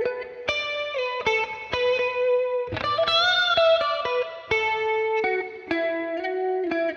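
Epiphone Widow Les Paul Custom electric guitar playing a single-note lead melody, with a note bent up and shaken with vibrato about three seconds in.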